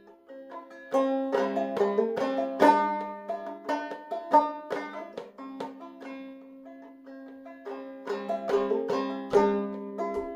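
Clawhammer banjo in eCGCD (double C) tuning, pitched a little sharp, playing an instrumental break of plucked, ringing notes with no singing. The playing softens in the middle and comes back stronger near the end.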